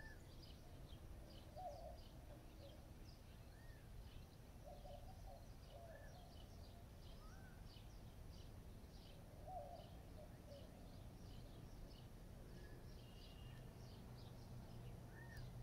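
Faint birdsong from several birds: many short high chirps, a few brief rising-and-falling whistles, and some lower calls, over a low steady rumble.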